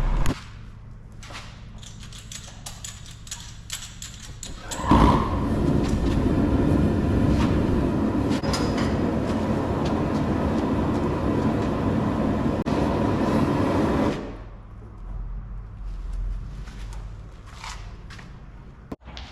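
Several light clicks, then a gas burner lights with a pop about five seconds in and runs as a loud, steady roar, heating the blade for normalizing, before cutting off about nine seconds later.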